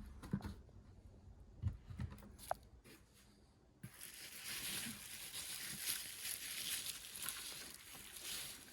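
A few light knocks of model train cars being handled, then, about four seconds in, bubble wrap crinkling steadily as a car is unwrapped.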